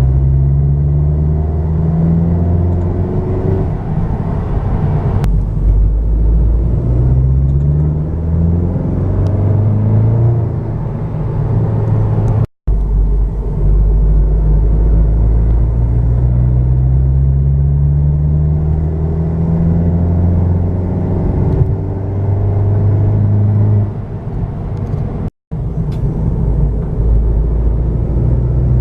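2017 VW Golf GTI Mk7.5's turbocharged 2.0-litre four-cylinder, with a REMUS cat-back exhaust, accelerating from low rpm under load several times, pitch rising with each pull. A tinkling rattle, like a few small pebbles shaken in an empty coffee can, is engine knock, later confirmed by the owner.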